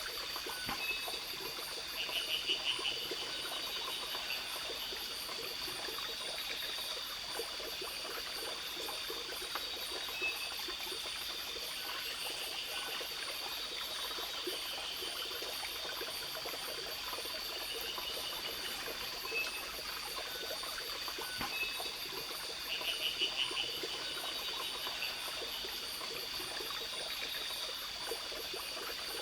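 A small stream running, with a steady high insect drone and fast pulsing insect trills over it, and short rattling calls about two seconds in and again about twenty-three seconds in.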